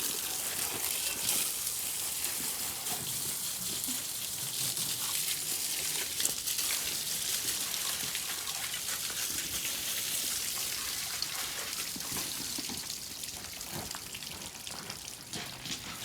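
Water spraying from a hose onto an International Harvester Scout II engine, a steady hiss of spray that eases off near the end. The engine is being soaked down ahead of degreasing with laundry soap.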